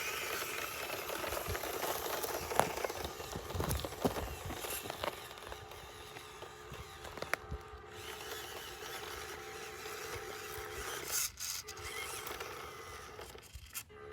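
Small electric RC crawler truck driving over dirt and rock: a steady electric motor and gear whine with tyres scrabbling and clicking on the ground, stopping briefly twice near the end.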